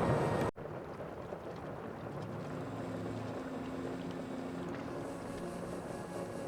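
Sea ambience heard from a boat: a steady rush of wind and water with a faint low hum underneath. A hard cut about half a second in ends a louder passage.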